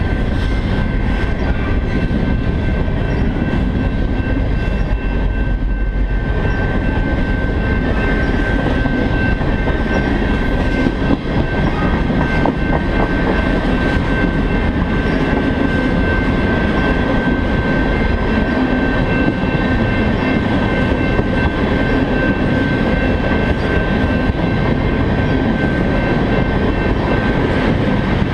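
Crude-oil freight train rolling past at close range: steel wheels running on the rails with a steady rumble and a steady high-pitched ring held throughout.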